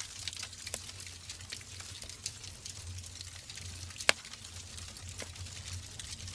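Wood fire burning in a fireplace, crackling with scattered small pops and one sharp, loud pop about four seconds in, over a steady low rumble.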